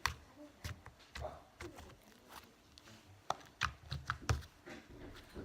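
Slime being squished and worked in the hands, making irregular small clicks and sticky pops, with a cluster of louder ones from about three seconds in.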